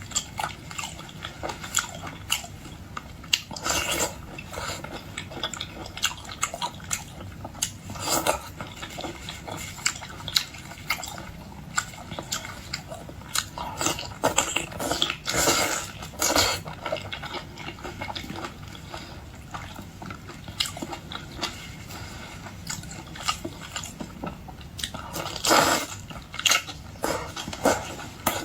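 A person eating boiled shellfish close to the microphone: irregular chewing, biting and crunching, with a few louder bursts now and then.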